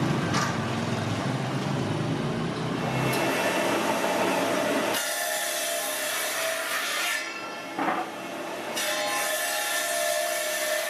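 Saw cutting through wood, a continuous rasping. The sound changes abruptly about five seconds in, and there is a single knock near eight seconds.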